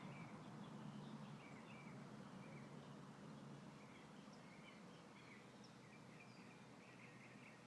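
Faint, frequent short bird chirps over a soft, steady rush of light wind.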